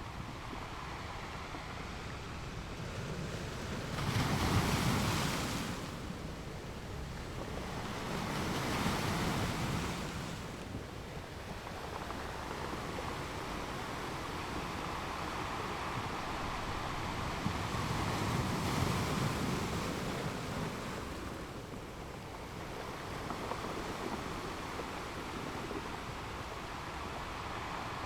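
Ocean waves washing ashore: a steady rushing that swells and ebbs every several seconds, loudest about four seconds in.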